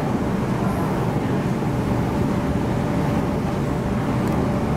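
Steady running noise inside an MTR K-train in motion, with a faint steady whine over the rumble.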